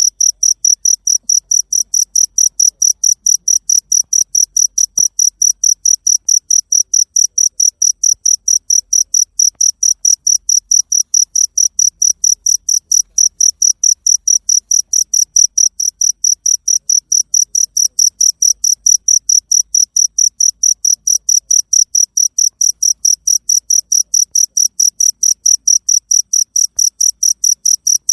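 A cricket chirping in a steady, unbroken rhythm of short high-pitched pulses, about three to four a second.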